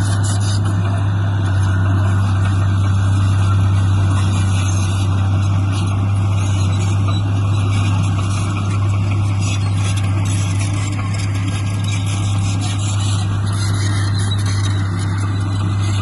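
Heavy diesel engine of earthmoving machinery running steadily, with a deep hum that holds an even pitch.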